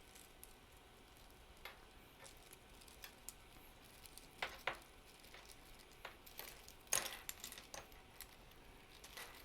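Faint, scattered clicks of the 3D-printed plastic segments of an articulated snake knocking together as its stiff joints are flexed to loosen them, with a louder pair of clicks about four and a half seconds in and another near seven seconds.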